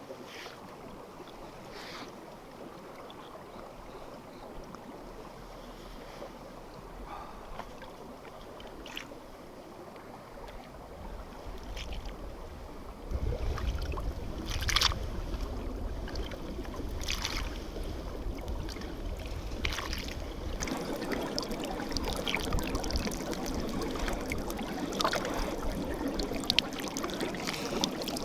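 Outdoor rushing noise with wind buffeting the microphone, getting louder about halfway through, and scattered short clicks and knocks.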